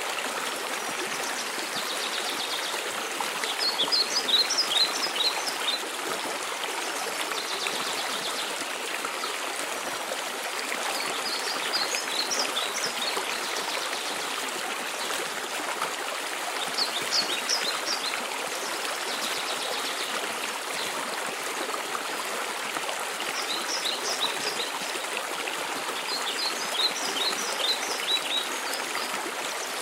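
Waterfall rushing steadily, with a songbird calling over it five times in short bursts of quick, high notes.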